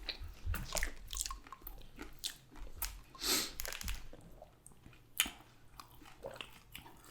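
Close-miked chewing and biting of food: irregular wet mouth clicks and short crunchy snaps.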